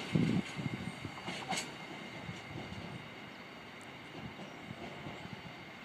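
Freight train of covered hopper wagons rolling away, wheels knocking heavily over the rail joints at the start and then fading to a low rumble as it recedes. A brief high screech sounds about a second and a half in.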